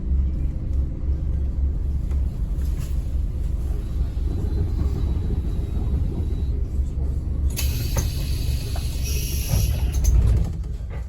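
Interior noise of a Scania N270UD OmniCity bus on the move: a steady low engine and road rumble. About seven and a half seconds in, a loud hiss of air joins it for about three seconds, and the rumble drops away right at the end.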